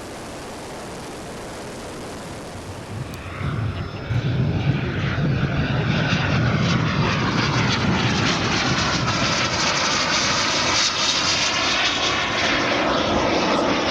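Twin JetCat P120 gas turbines of a quarter-scale model English Electric Lightning jet running, the sound swelling sharply about four seconds in as the jet comes close and staying loud.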